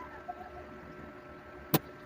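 A sharp single click near the end, with a fainter tick early on, over a steady electrical hum.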